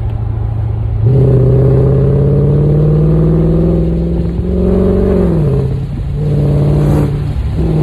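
Supercharged V8 of a 2003 Mercedes CL55 with long-tube headers, no catalytic converters and a Borla exhaust, heard through open car windows under hard acceleration. About a second in it comes on loud, its pitch climbing steadily for a few seconds, then drops around five seconds in, pulls again and eases off near the end.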